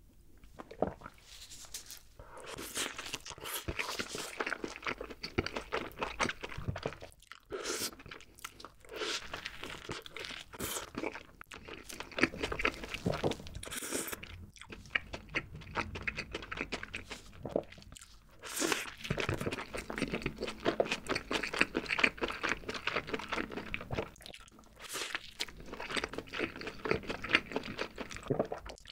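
Close-miked mouth sounds of a burger being bitten into and chewed, a dense wet crackle with short pauses between mouthfuls.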